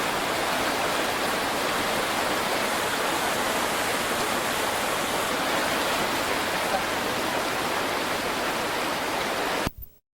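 River water rushing steadily, an even unbroken noise that cuts off suddenly near the end.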